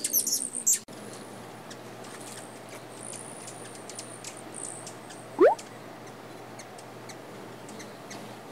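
Hummingbird calling: a run of high, squeaky chirps in the first second, then faint scattered high chip notes over a low steady hum. A short, loud rising whistle-like sweep comes about five and a half seconds in.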